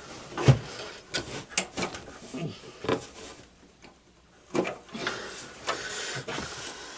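Irregular knocks, clicks and scraping of hand tools and metal parts being handled. There is a short lull in the middle.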